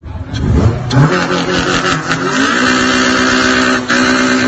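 Car engine revving: the pitch climbs over the first couple of seconds, then holds high and steady, with a brief dip about four seconds in.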